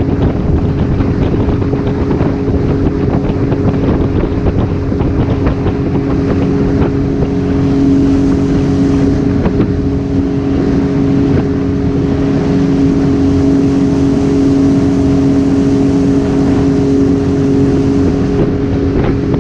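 Boat's outboard motor running steadily under way, holding one even pitch, with wind buffeting the microphone.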